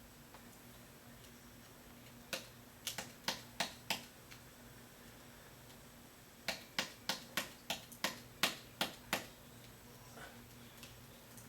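Sharp knocks of a stick vacuum's hard plastic dust bin being tapped to shake the collected sand out. They come in two runs: about six knocks near two seconds in, then about nine quicker ones from about six and a half to nine seconds in.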